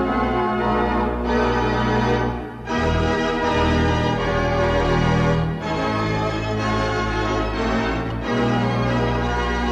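Wurlitzer theatre pipe organ playing full sustained chords with deep bass, changing chord every few seconds with a short break between them.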